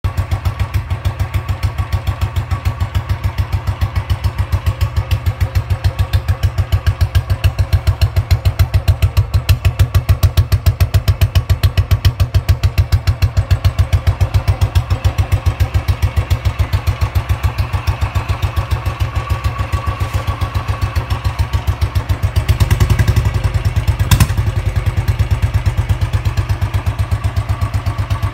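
Royal Enfield Classic 350 Redditch single-cylinder engine idling through an aftermarket chrome 'medium bottle' silencer, a steady, even exhaust beat. It gets briefly louder for about a second and a half, three quarters of the way through, with one sharp knock.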